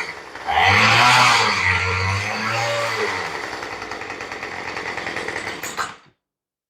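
Small rototiller engine running on a rebuilt carburetor, its speed rising and falling a few times, then running steadier before stopping abruptly about six seconds in.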